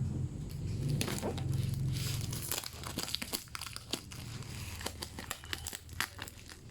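Packaging being unwrapped by hand: dense crinkling with scattered sharp crackles and clicks.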